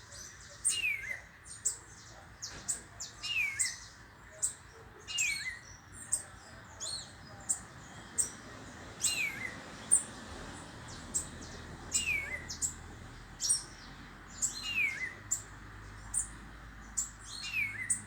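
Several birds chirping and calling, with one bird repeating a short downward-slurred whistle every two to three seconds amid quick high chirps.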